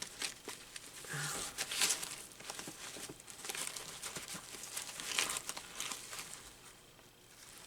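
Hands rummaging through a drawer of lace scraps: irregular rustling and crinkling, tapering off near the end.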